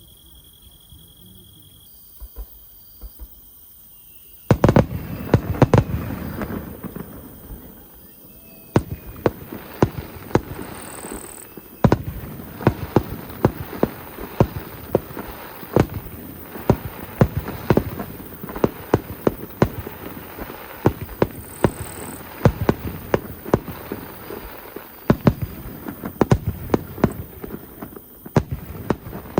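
Fireworks display: a few scattered pops, then from about four seconds in a dense, continuous barrage of bangs and crackles, several a second.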